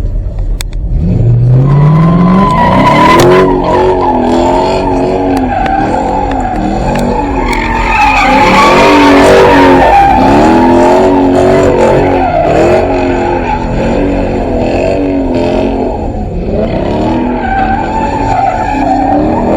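A car doing a burnout, its tyres squealing continuously. The engine revs up hard about a second and a half in, then its revs keep rising and falling as the throttle is worked.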